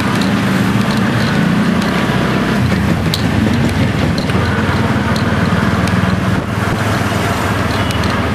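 Motorcycle engine of a moto-chiva tourist cart running steadily while under way, under a steady rush of road noise. The engine note shifts about a third of the way in, and the level dips briefly about three-quarters of the way through.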